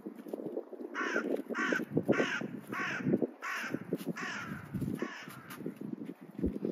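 A bird calling about seven times in an even series, roughly two calls a second, starting about a second in. Under it, close rustling and scraping of hands working among the rose stems and covering.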